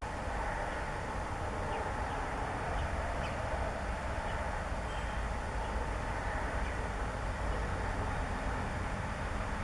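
Steady outdoor background noise, low and even, with a few faint short high chirps in the first half.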